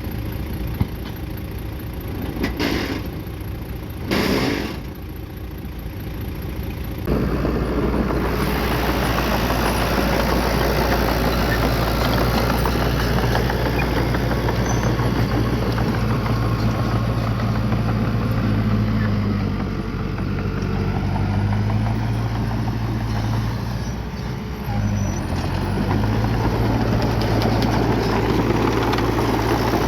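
Heavy diesel engine of a working bulldozer running steadily, getting much louder about seven seconds in. Its pitch dips and recovers a couple of times as it takes load. Two brief hisses come before the engine grows louder.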